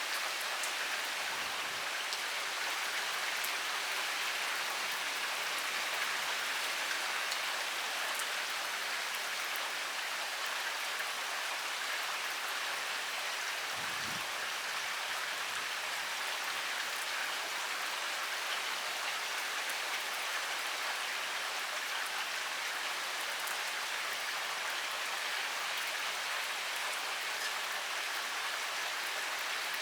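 Heavy rain pouring steadily, an even hiss with fine ticks of individual drops.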